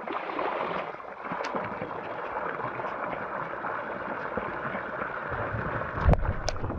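Steady noise of running water, trickling and gurgling. About six seconds in there is a low rumbling thump with a couple of sharp clicks.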